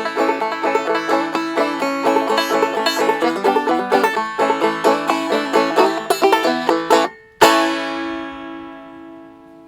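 Clawhammer banjo in G tuning raised to A, playing a brisk old-time tune. About seven seconds in the picking stops for a moment, then a final chord is struck and rings out, fading away.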